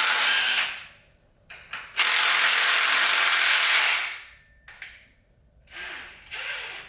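Hand ratchet clicking in quick runs as the spark plugs are backed out of a Nissan Sentra engine. There are three spells: a short one at the start, a longer one of about two seconds in the middle, and a shorter one near the end.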